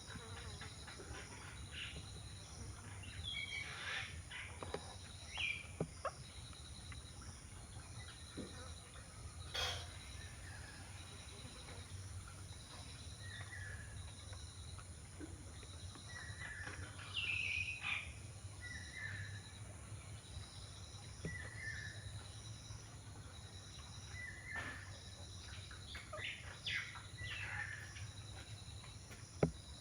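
Birds in a feeding flock giving scattered short chirps and calls, with sharp clicks and taps here and there. Underneath runs a steady low hum, and a faint high-pitched note pulses about once a second.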